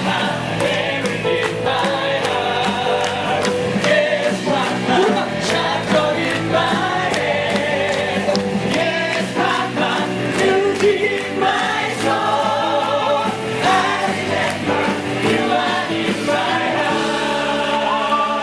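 Live song: several voices singing together over band accompaniment.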